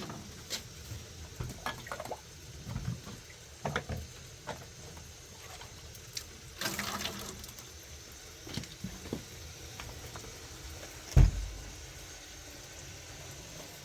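Household handling noises: scattered short knocks and clicks, a brief rushing sound like liquid being poured about seven seconds in, and one heavy thump about eleven seconds in, the loudest sound.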